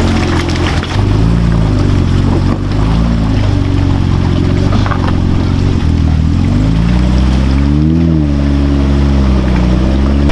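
Off-road truck's engine working under load, its revs rising and falling several times, with a longer climb and drop about eight seconds in.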